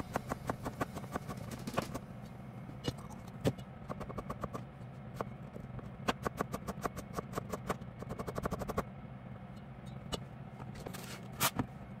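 Kitchen knife chopping on a cutting board in quick, even runs of strokes, about five to seven a second, with a few separate knocks between the runs and a steady low hum underneath.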